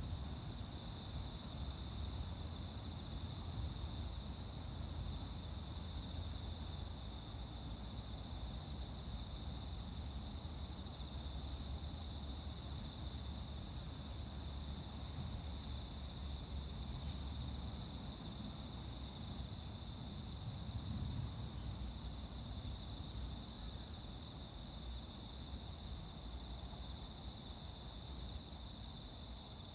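A chorus of insects singing, a steady high trill that never breaks, over a low rumble.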